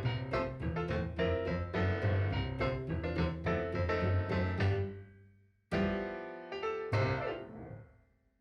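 Background piano music: a quick run of notes fades out about five seconds in, then two struck chords ring and die away.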